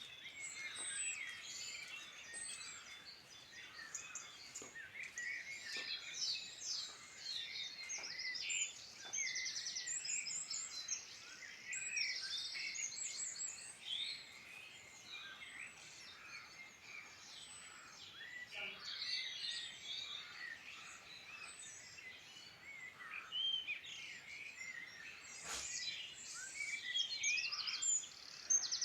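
Several wild songbirds singing at once: a dense chorus of overlapping chirps, rapid trills and short whistles.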